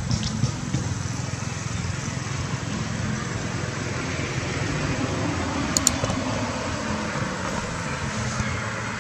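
Steady outdoor background noise with distant road traffic, and a pair of sharp clicks close together about six seconds in.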